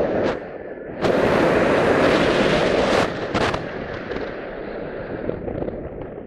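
Wind buffeting the microphone, a rough rushing crackle that surges loudly about a second in and eases after about three seconds.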